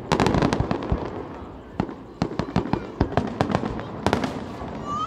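Fireworks display: a rapid, irregular run of sharp bangs from bursting shells, over a steady low rumble.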